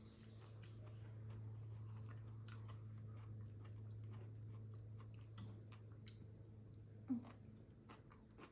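Chewing prawns, with soft scattered mouth clicks and smacks, over a steady low hum. A brief sharper sound about seven seconds in is the loudest moment.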